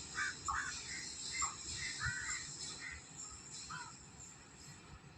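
Crows cawing, a dozen or so short calls at irregular intervals, over a hiss that fades over the first few seconds as a passed goods train draws away.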